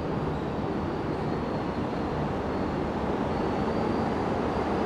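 Renfe Cercanías commuter train approaching through the tunnel into an underground station: a steady rumble that slowly grows louder, with a faint high whine above it.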